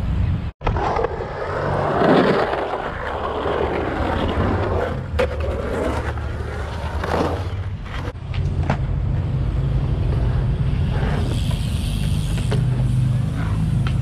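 Wheels rolling and grinding on skatepark concrete, a steady rumble broken by several sharp knocks from landings or hits on the edges.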